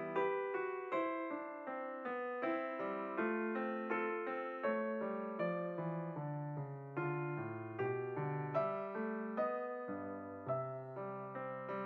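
Background piano music: a gentle run of single notes and chords, each struck and fading, about two to three notes a second.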